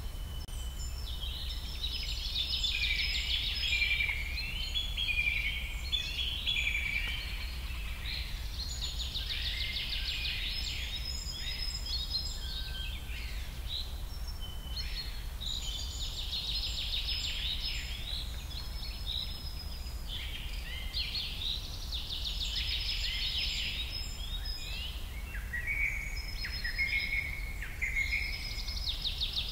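Birds singing: repeated chirping and warbling phrases, one after another, over a steady low hum.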